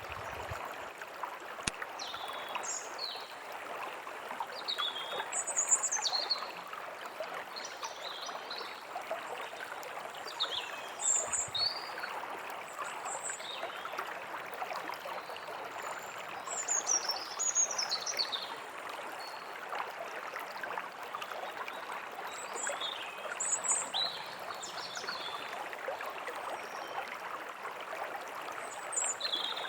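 A stream running steadily, with songbirds chirping and singing in short high phrases over it throughout, louder bursts of song coming every few seconds.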